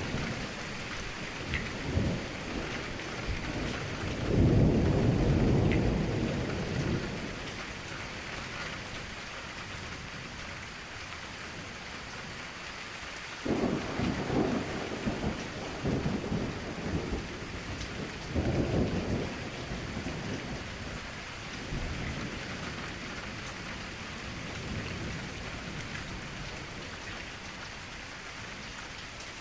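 Steady rain with thunder rumbling at intervals: a long, loud roll about four seconds in, and shorter rumbles near the middle.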